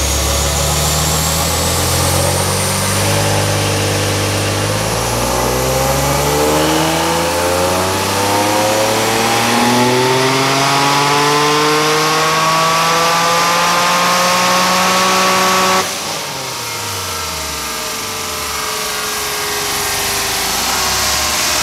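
Turbocharged Infiniti G35's 3.5-litre V6 making a full-throttle pull on a chassis dyno. The revs climb steadily for about fifteen seconds, then the throttle is shut and the revs fall away.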